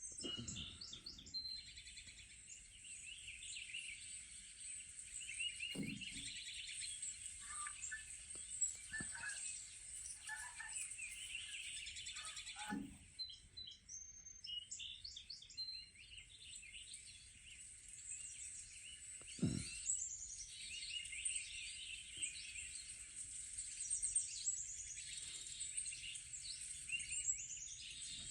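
Birds chirping and singing on a TV nature program's soundtrack, many calls overlapping without a break, with a few soft low thumps.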